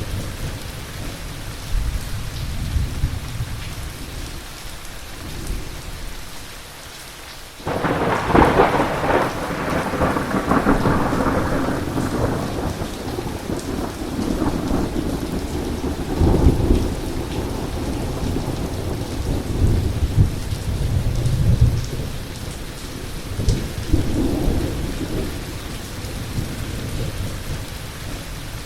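Thunderstorm with heavy rain: thunder rumbling low, then a sudden loud crack of thunder about a third of the way in that rolls on in long rumbles, with further surges of rumbling later, over a steady hiss of rain.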